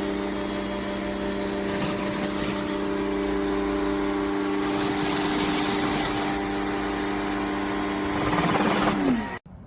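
Electric pressure washer running with water hissing from the spray, the motor humming steadily. Just before the end the motor's pitch falls as it spins down, and the sound cuts off abruptly.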